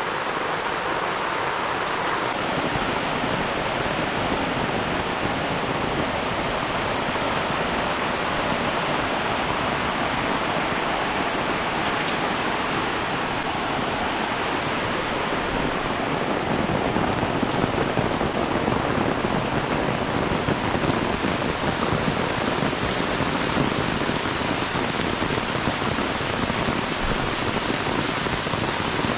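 Heavy rain pouring down steadily, a dense hiss that grows a little louder and brighter about two-thirds of the way through.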